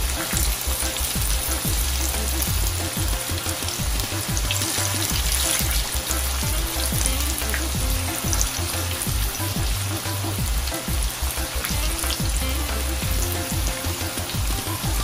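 Wedges of pre-cooked breadfruit frying in hot oil in a pan: a steady sizzle with constant small crackles and pops.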